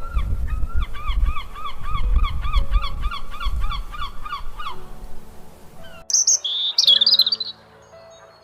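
A bird calling over and over in a quick, even series of short pitched notes, about three a second, over a low rumble; it stops after about five seconds, and about a second later higher, quicker chirps start.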